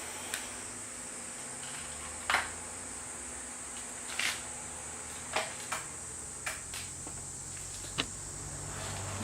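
About seven short, sharp clicks and knocks at irregular intervals, the loudest a little over two seconds in, over a steady high hiss.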